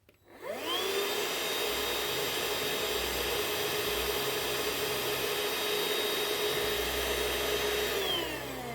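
Parkside Me PMSSA 8 A1 8-volt cordless handheld vacuum cleaner switched on, its motor whine rising quickly as it spins up. It runs steadily for about seven seconds, then is switched off, the whine falling as the motor winds down.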